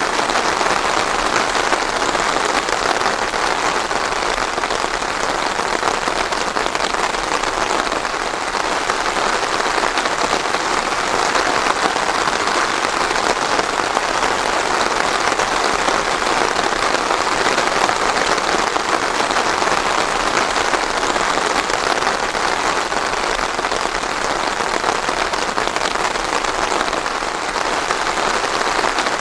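Steady, even rainfall on a surface, without thunder.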